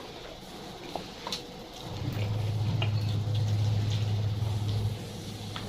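Close-miked eating: chewing with small wet mouth clicks. From about two seconds in, a steady low hum lasts about three seconds and then stops.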